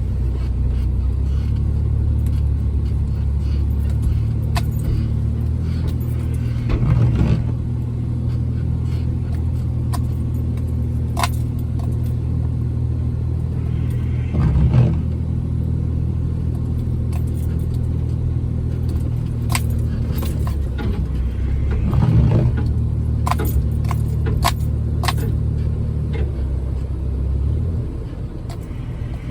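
Jeep Wrangler engine running steadily while driving on a snowy trail, heard from inside the cab, with light rattling clicks from loose items in the cab over it. The engine eases off near the end.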